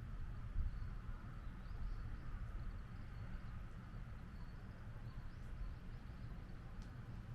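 Outdoor ambience: a steady low rumble with faint, high bird chirps scattered through it.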